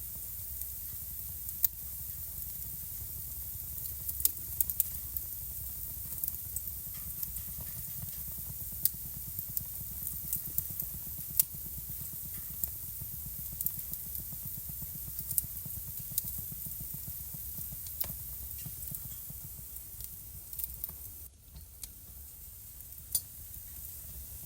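Wood fire burning in a fireplace: a steady low rumble and hiss with irregular sharp crackles and pops, a few of them louder.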